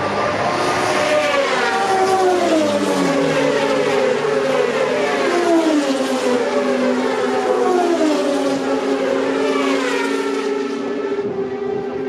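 A bunched pack of racing motorcycles passing at high speed on closed public roads, engines at full throttle, one bike after another, each engine note dropping in pitch as it goes by.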